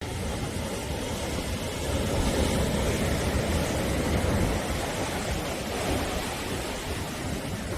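Sea waves breaking and washing onto the shore in a steady wash, swelling slightly a couple of seconds in.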